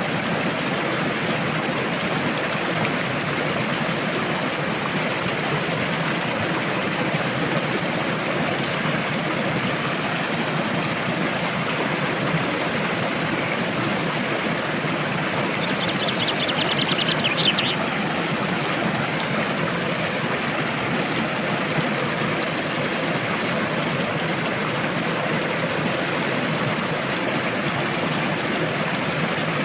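Rushing river water, a steady even noise. About halfway through, a brief rapid trill, most likely a bird, sounds over it.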